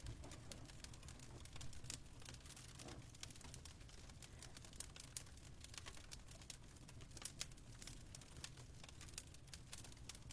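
Faint fireplace crackling: irregular small pops and snaps over a low steady rumble.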